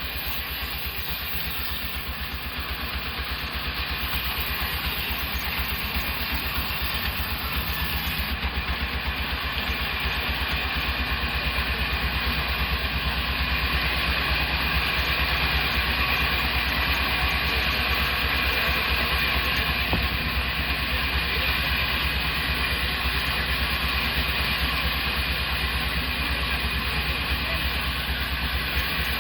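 Sawmill machine running with a steady mechanical drone, growing a little louder over the first several seconds and then holding even.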